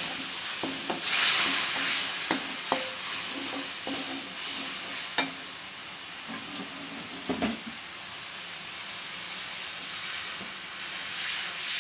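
Spice paste sizzling in a wok as water is added and stirred in, with a metal spatula scraping and clicking against the wok now and then. The sizzle swells about a second in and again near the end.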